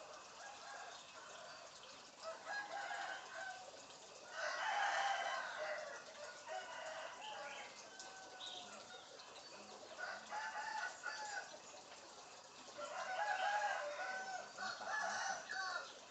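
African grey parrot calling in several bouts of pitched calls, the loudest about four seconds in and again near the end.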